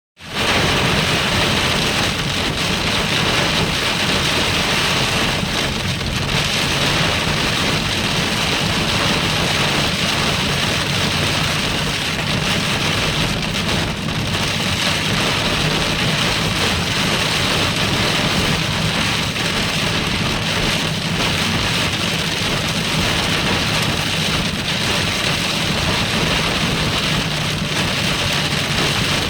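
Heavy rain coming down steadily on a car while driving, a dense, even hiss.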